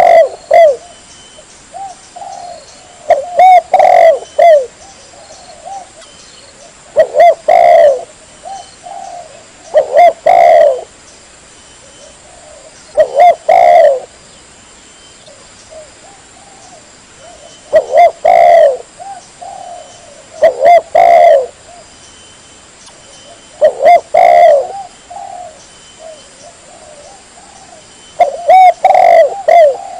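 Spotted dove cooing: short phrases of a few low coos, repeated about every three seconds, nine in all.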